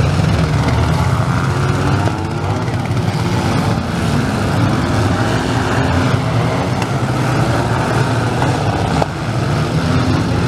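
Several compact demolition derby cars' engines running and revving together, their pitches rising and falling over one another.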